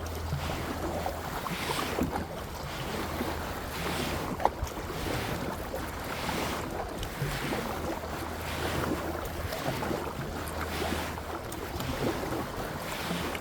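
Kayak paddle strokes swishing through water, about one stroke a second, with wind buffeting the microphone. A single sharp knock about four and a half seconds in.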